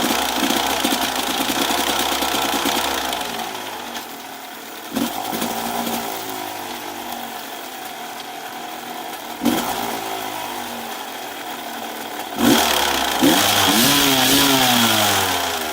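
A 1999 Gas Gas 250 EC's two-stroke single running, with the throttle blipped three times: about five seconds in, about nine and a half seconds in, and then a longer rev near the end that is the loudest. The owner suspects a noise from the gearbox sprocket.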